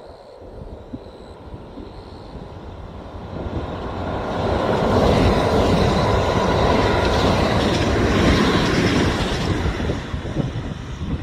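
A train passing close by: the rail noise builds from about three seconds in, stays loud for around five seconds, then eases off.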